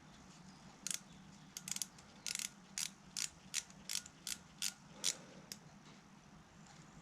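A hand tool's ratchet clicking, about a dozen sharp clicks from about one second in to about five seconds in, settling into an even two or three clicks a second.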